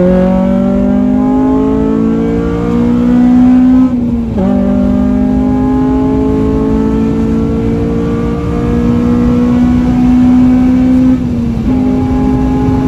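Modified FN2 Honda Civic Type R's four-cylinder engine under hard acceleration on track, its note climbing steadily. Upshifts come about four seconds in and again near eleven seconds, where the pitch drops and then rises again.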